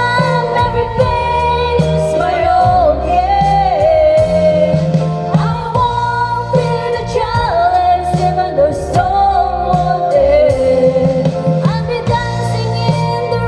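A woman singing a gospel song over instrumental accompaniment with bass and drums, her long held notes wavering with vibrato.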